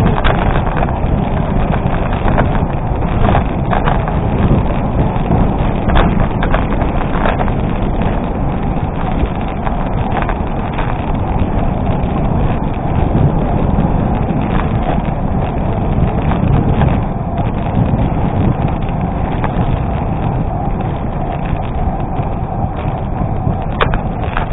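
Gravel bike's tyres rolling and crunching over an unpaved gravel road, with wind rushing over the microphone and scattered clatters as the bike jolts over bumps.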